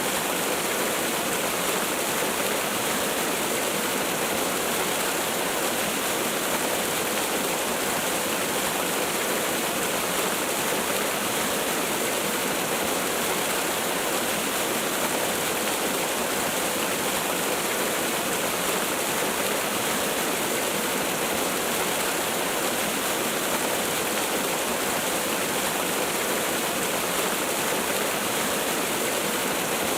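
Waterfall: water falling and splashing in a steady, unbroken rush, with most of its sound in the middle and upper range and little deep rumble.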